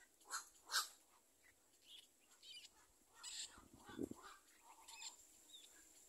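Faint, short, harsh bird calls at a heron nest, scattered through several seconds, with the two loudest close together in the first second. A dull low thump comes about two-thirds of the way through.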